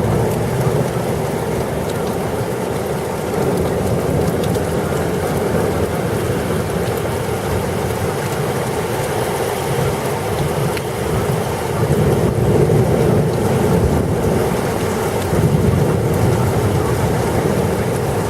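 Heavy rain pouring steadily in a thunderstorm, with low rumbles of thunder swelling a couple of times near the end.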